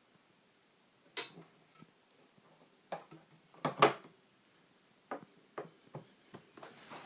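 Scattered sharp clicks and knocks of hard parts being handled, the loudest a quick double knock a little under four seconds in, followed by a run of lighter clicks near the end.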